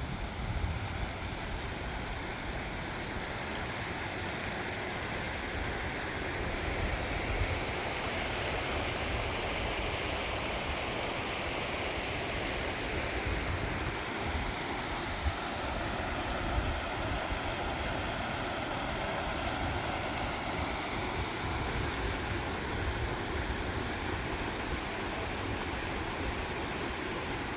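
A river rushing and splashing over rocks, giving a steady, even wash of water noise.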